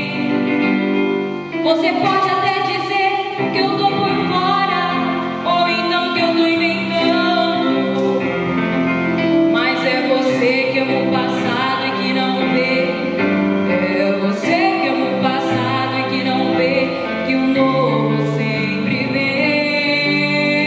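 A woman singing a slow melody with vibrato over steady instrumental accompaniment.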